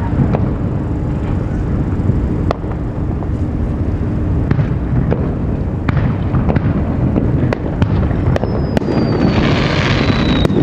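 Aerial fireworks going off: scattered sharp bangs of shells bursting over a steady low rumble, with a thin, slowly falling whistle and a hiss of crackle near the end.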